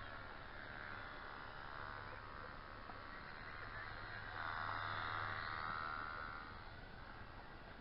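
WLtoys V911 micro RC helicopter's small electric motors and rotors whining in flight, getting louder for about a second and a half past the middle before easing off, over a steady low hum.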